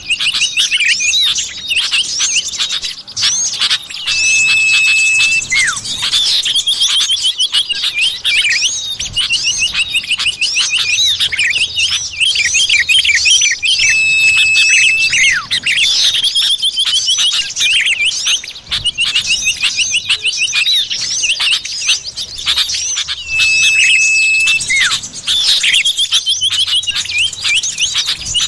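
Bird-lure recording of common iora (cipoh) calls: rapid overlapping chirps and trills from small birds, with a steady whistle lasting about a second that comes back three times, the pattern repeating every nine to ten seconds like a loop.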